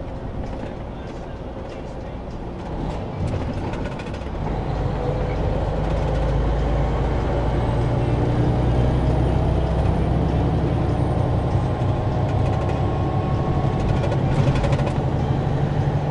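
Semi truck's diesel engine heard from inside the cab, pulling under load: a steady low drone that grows louder about four seconds in and then holds.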